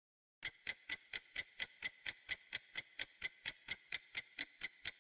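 Clock-ticking sound effect used as a quiz countdown timer: crisp, even ticks about four a second, starting about half a second in.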